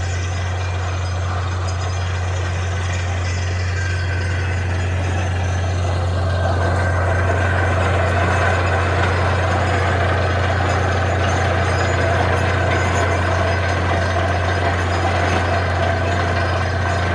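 Heavy diesel engine of a borewell drilling rig running steadily with a deep drone, growing a little louder with a higher hum from about six seconds in.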